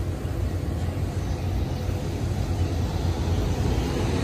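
SEPTA Silverliner IV electric multiple-unit train passing close by: a steady low rumble of wheels on rail that grows slightly louder as the cars go past.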